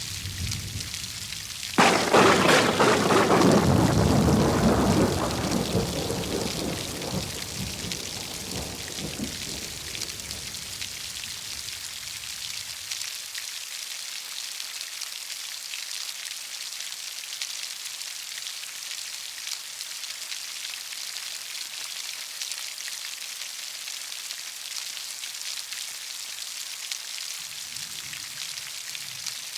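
Heavy rain falling steadily, with a sudden loud thunderclap about two seconds in whose rumble fades away over the next several seconds. A faint low rumble comes near the end.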